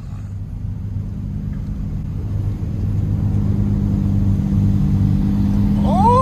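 Car engine running with a steady low drone, its pitch nearly constant, growing gradually louder.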